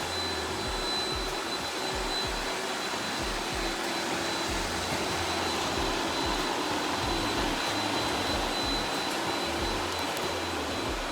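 Robot vacuum running: a steady whirring suction noise with a thin, steady high whine, over a low hum that pulses on and off.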